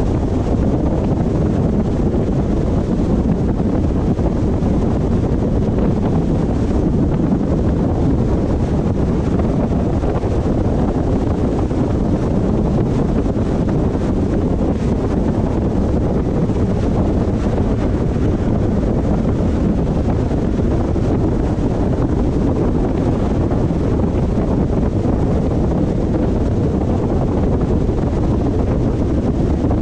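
Steady road and wind noise from a car driving at a constant speed, a dense low rush without changes.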